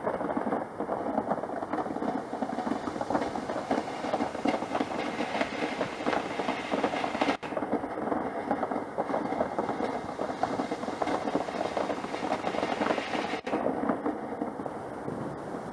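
Garden firework, such as a ground fountain, crackling and fizzing steadily with a dense run of small crackles, broken by two very brief dropouts.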